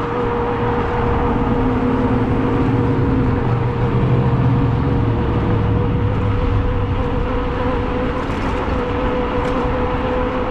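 Riding noise on an e-bike in road traffic: a loud, steady rush of wind and road noise with vehicles going by, and a steady hum held at one pitch throughout.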